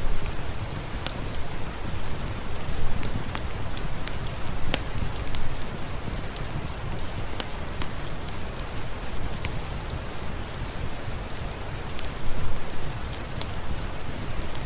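Steady rain falling, with a low rumble beneath and many scattered sharp clicks and crackles.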